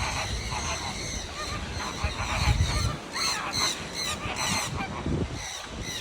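Birds calling: a run of short, harsh, repeated calls, thickest in the middle of the clip. There is also a brief low rumble a couple of seconds in.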